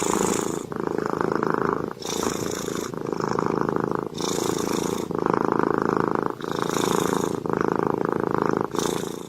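Domestic cat purring, a steady fine buzzing that breaks briefly with each breath, about every one to two seconds.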